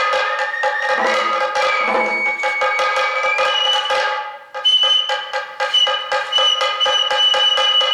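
Sato kagura festival music: a bamboo flute plays sustained, slightly gliding notes over fast, even drum strokes. The music breaks off briefly about four and a half seconds in, then resumes with a high held flute note.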